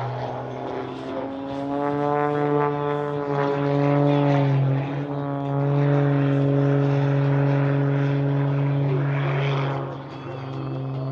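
Propeller airplane flying a display, its engine and propeller giving a steady droning note. The drone grows louder about two seconds in, wavers slightly in pitch, and drops off near the end.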